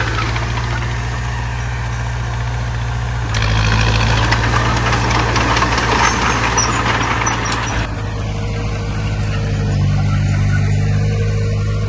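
Heavy diesel engine of earthmoving machinery running steadily. It grows louder with added clatter from about three seconds in, as if working under load. About eight seconds in it drops back to a steadier, lower running.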